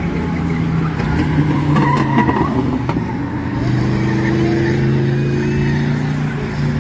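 Bomber-class stock car engines running at race speed around the track, with one engine rising in pitch about halfway through as a car accelerates.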